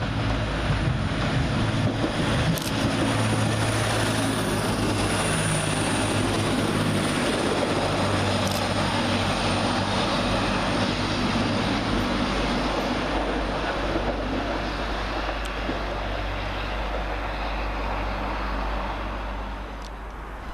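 TransPennine Express Class 185 diesel multiple unit passing through the station, its Cummins diesel engines running steadily under a haze of wheel and rail noise with a few clicks, fading over the last few seconds.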